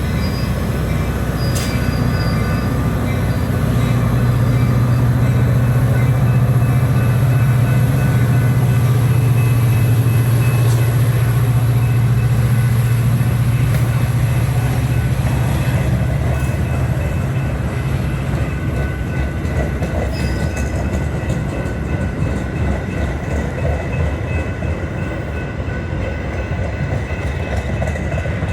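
A diesel-hauled train passing. The locomotive's engine gives a loud, steady low drone for about the first half, which eases off after about seventeen seconds as the rest of the train rolls by.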